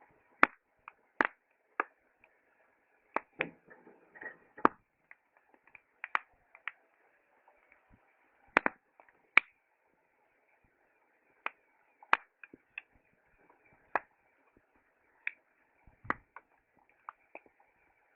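Wood campfire crackling: sharp, irregular pops and snaps, about one or two a second, over a faint steady hiss.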